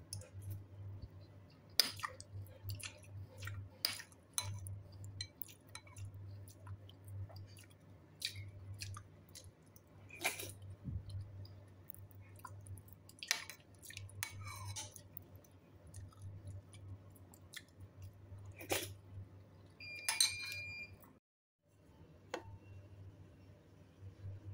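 Close-up eating sounds: chewing soft tofu and rice, with scattered small clicks of the mouth and spoon. A metal spoon clinks against the bowl about twenty seconds in. A low steady hum runs underneath.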